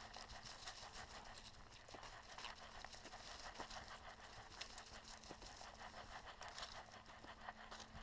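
Faint footsteps crunching and rustling on a dry trail, irregular small crackles over a soft hiss, with a low steady hum underneath.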